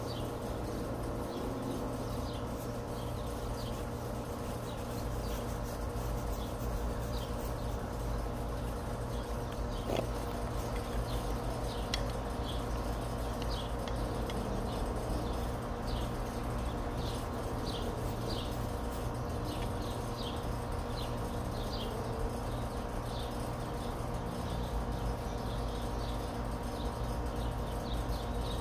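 A bird chirping over and over in short high chirps, about once or twice a second, over a steady low rumble.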